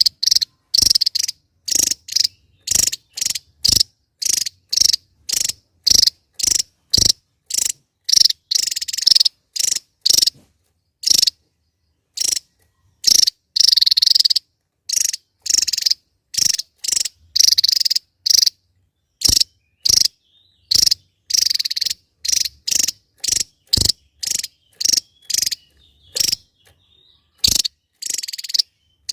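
Javan tesia (Tesia superciliaris) singing: a rapid series of short, high-pitched chirping notes, about two a second, broken by a few longer trilling phrases.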